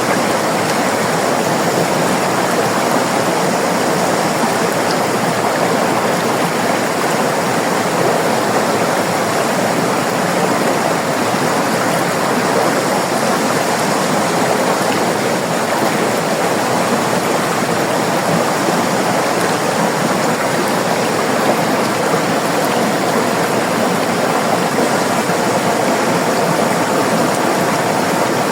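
River water flowing over rocks, a steady rushing and gurgling with no change.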